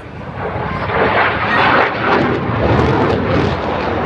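Jet aircraft engine noise as it flies past: a loud rushing sound that swells about a second in and stays strong.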